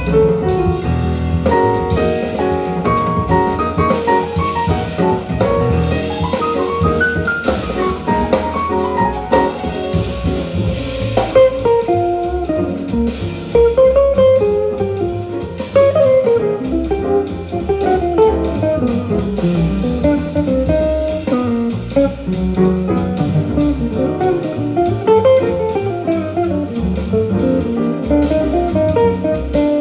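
Small-group jazz recording playing over hi-fi loudspeakers in a room: a guitar plays a running melodic line over double bass and drum kit.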